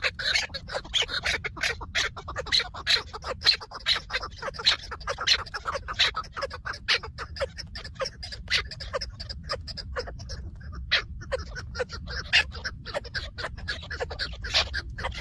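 Chukar partridges calling: a rapid, continuous run of short clucking 'chuk' notes, several a second.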